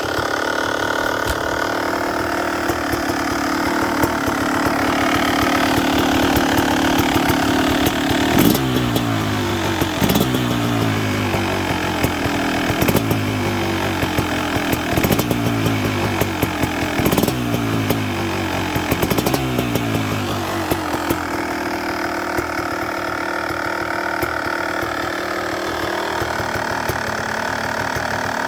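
Kawasaki KX250 single-cylinder two-stroke engine running on its first start after about three years of sitting. About a third of the way in, the throttle is blipped about six times, a couple of seconds apart, each rev falling back before the next. It then settles back to a steady idle near the end.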